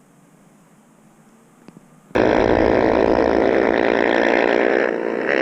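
Motorbike engine revving hard nearby, starting suddenly about two seconds in and then held at high revs with a steady pitch.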